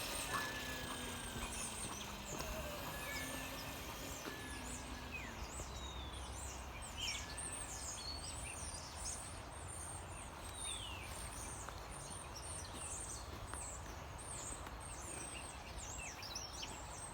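Birds chirping, many short falling calls one after another, over a low steady outdoor rumble. A faint whine glides up and down in pitch during the first few seconds.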